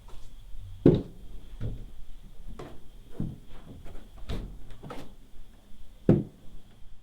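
A series of about seven knocks and thumps spread unevenly over several seconds, the loudest about a second in and another near the end, over a faint steady high whine.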